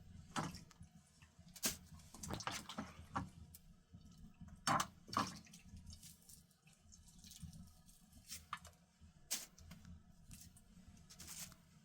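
Faint, irregular drips and light taps, about a dozen short ticks scattered unevenly, the loudest pair near the middle.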